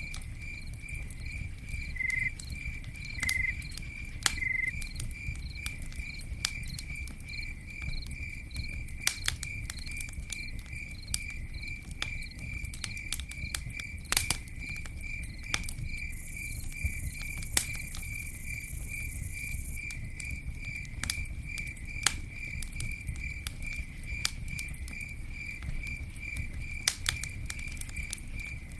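Campfire burning with scattered sharp crackles and pops over a low rumble, and a few seconds of high hiss starting about halfway through. Behind it, an insect chirps steadily in an even, rapid pulse.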